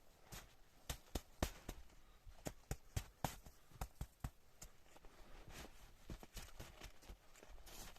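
A run of irregular sharp knocks and clicks, several a second, with a couple of brief scraping or crunching noises.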